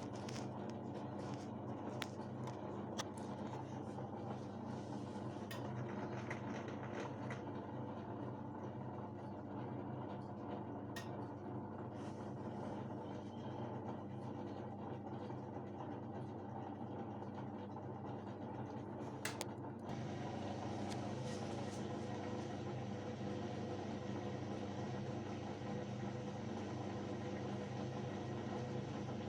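Washing machine running: a steady motor hum and drum rumble, with a few light clicks in the first twenty seconds. The sound steps up slightly about twenty seconds in.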